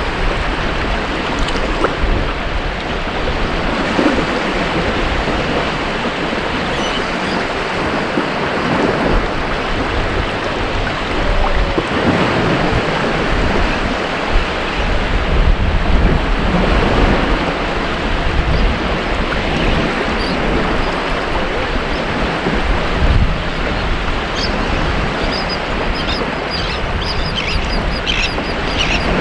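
Ocean waves breaking and washing on a beach, a continuous surf that swells and eases every few seconds. A few short high bird calls come in near the end.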